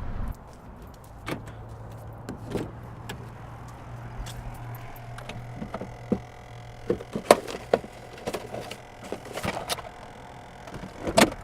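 Handling noises: a series of small clicks and knocks as things are picked up and moved, loudest about seven seconds in and again near the end, over a low steady hum that stops about eight seconds in.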